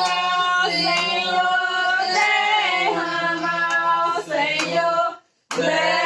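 A woman's voice singing a Portuguese gospel birthday hymn in long held notes, over a steady low accompaniment. The sound cuts out for a moment near the end, then the singing resumes.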